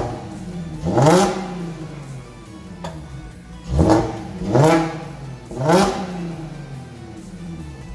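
2016 Audi S4's supercharged 3.0 V6 revved in quick blips through a newly fitted AWE Touring exhaust: about five short revs, each rising fast and falling back to idle.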